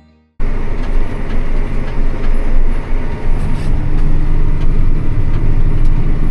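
A vehicle running: a loud, steady low rumble that starts abruptly about half a second in.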